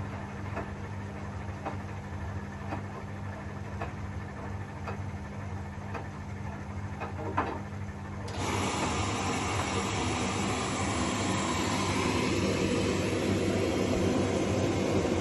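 Vintage Zanussi FLS-822CH washing machine running its 95 °C drum-clean cycle: a steady motor hum with a regular knock about once a second, then a little past halfway it suddenly turns louder with a steady rushing noise.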